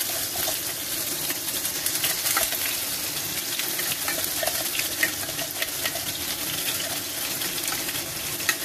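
Ground onion paste and chopped garlic sizzling in hot mustard oil in a frying pan: a steady hiss with many small crackles and pops. The paste is wet, so the oil spits as it goes in.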